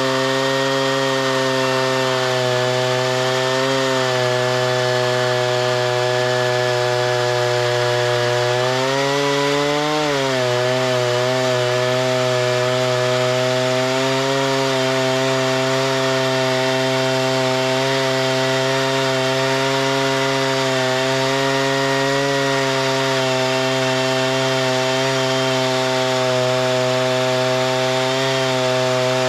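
Chainsaw engine running steadily under load while cutting through wood. Its pitch sags about nine seconds in and then climbs back.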